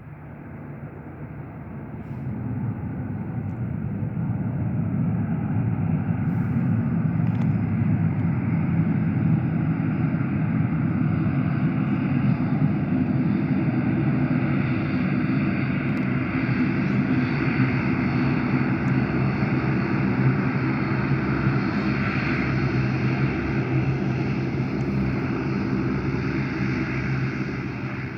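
Airliner engines running: a steady, loud drone with several held low tones that swells over the first few seconds and then holds level.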